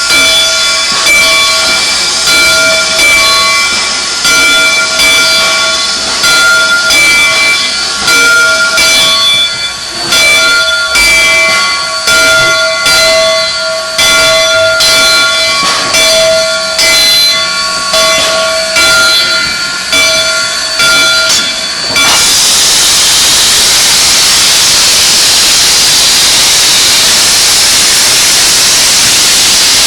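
Steam locomotive's bell ringing steadily, about one stroke a second. About two-thirds of the way through, the bell gives way abruptly to a loud, steady hiss of escaping steam.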